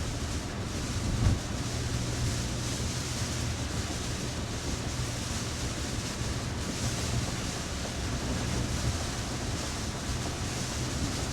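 Heavy rain on a moving car and its tyres on the wet road, a steady rushing noise heard from inside the cabin, with a brief bump about a second in.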